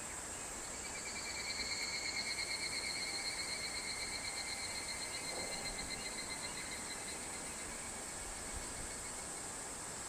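A higurashi (evening cicada) calling: a rapidly pulsing, ringing call that swells over the first two seconds and then fades away over several seconds. A steady, high-pitched insect chorus continues underneath.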